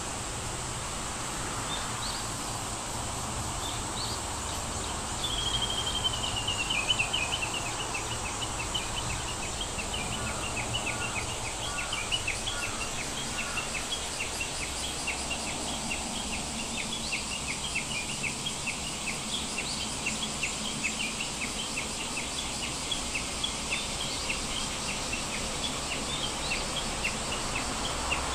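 Birds chirping: many short calls repeated several times a second, with a fast descending trill about five seconds in and a few lower notes a little later, over a steady high-pitched whine like insects.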